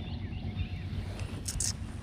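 Faint bird chirps over a steady low rumble, with a brief hiss about one and a half seconds in.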